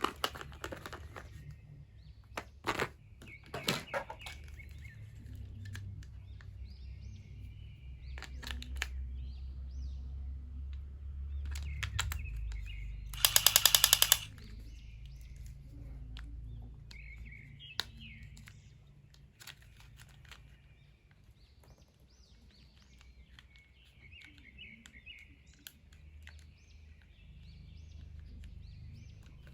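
Birds chirping in the background, with scattered sharp clicks in the first few seconds. About halfway through comes a loud, rapid rattling burst lasting about a second.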